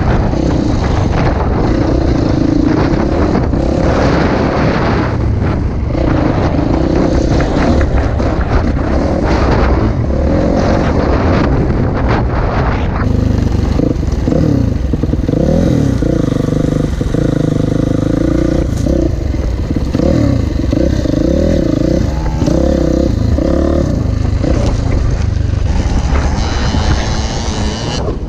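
Motocross dirt bike engine running, its pitch rising and falling as it is revved and eased off.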